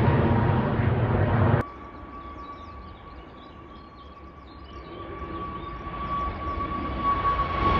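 Jet airliner engines at takeoff power: a loud roar that cuts off abruptly about a second and a half in, followed by a quieter jet with a steady high engine whine, growing louder toward the end as it spools up.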